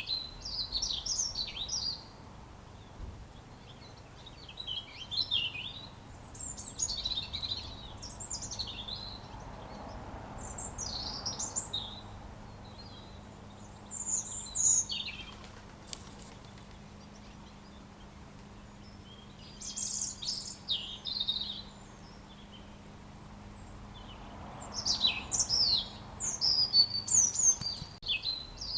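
A robin singing: short, warbled, high-pitched song phrases, each about a second or two long, separated by pauses of a few seconds, with phrases coming closer together near the end.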